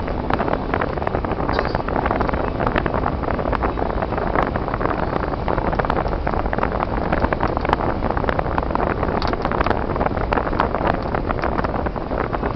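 Steady road and engine noise of a car driving on icy, snowy roads, with many small clicks and crackles throughout.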